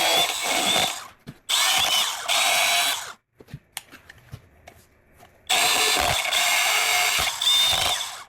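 Handheld power tool running in three bursts with a high whine while trimming an oversized exhaust gasket to fit. Each run starts and stops abruptly, with a few faint clicks in the pause between the second and third.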